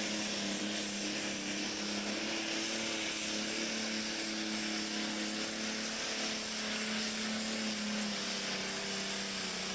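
Pulling tractor's engine running at steady revs with a constant low tone, under a strong hiss.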